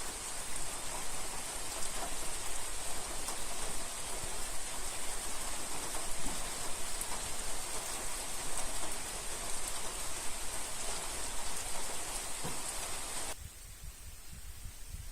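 Steady heavy rain with scattered drop taps. It cuts off abruptly about 13 seconds in, leaving a much quieter outdoor ambience.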